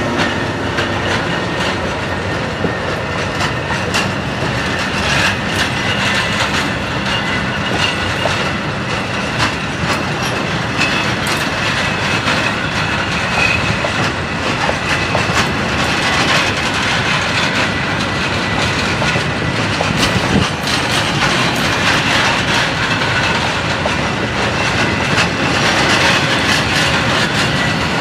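Container freight train's loaded flat wagons rolling past at close range: a steady heavy rolling rumble of steel wheels on rail, with repeated clicks as the wheels cross rail joints.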